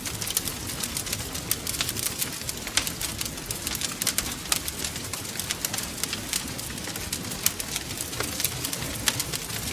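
Wood fire crackling: a dense, irregular run of sharp pops and snaps over a low steady rumble of the flames.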